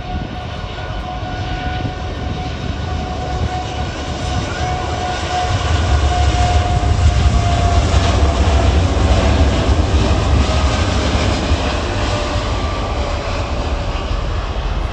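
An airliner's engines passing by: a heavy, steady rumble that builds to its loudest about halfway through, with a whining tone that slowly falls in pitch as the aircraft goes past.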